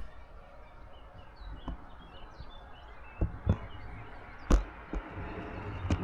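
Small birds chirping: many short, high chirps, broken by a few sharp knocks.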